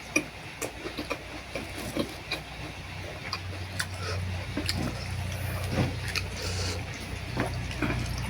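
Eating sounds from a bowl of boat noodles: irregular light clicks and taps of spoon and chopsticks against the bowl, with slurping and chewing, over a low hum that comes up about halfway through.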